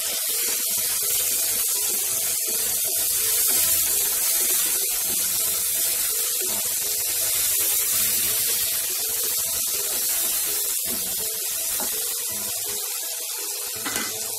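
Tomatoes and onion-spice masala sizzling steadily in hot oil in a non-stick kadai over a medium flame, stirred now and then with a wooden spatula.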